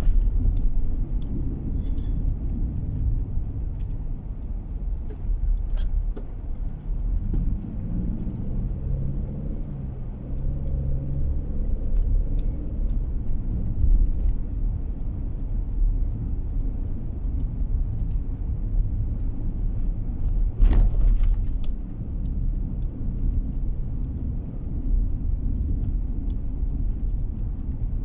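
Car driving, heard from inside the cabin: a steady low rumble of engine and road noise. The engine note rises and shifts for a few seconds about eight seconds in, and there is a single sharp knock about twenty seconds in.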